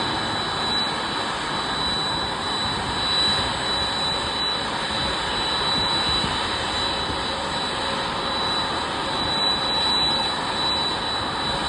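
Boeing 767-300ER jet engine running steadily after its start: an even rushing roar with a steady high-pitched whine over it, not rising or falling.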